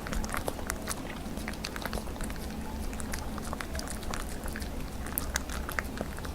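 A puppy chewing chicken breast close to the microphone: quick, irregular wet clicks and smacks of its mouth and teeth on the meat.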